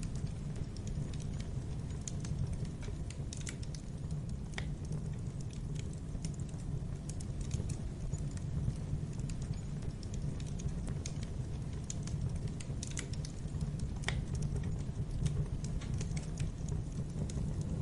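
Wood fire burning in a fireplace: a steady low rumble of the flames with frequent small crackles and pops at irregular intervals, and a couple of slightly louder snaps.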